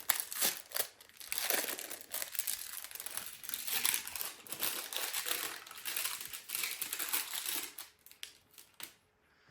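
Gift packaging crinkling and rustling as it is handled and opened, in irregular bursts that die away about eight or nine seconds in.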